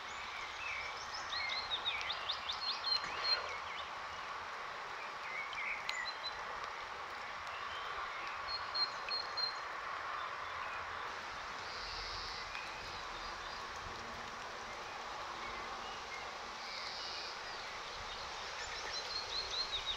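Steady rain falling, pattering onto puddle water. Small birds chirp now and then, in a cluster a couple of seconds in and again near the end.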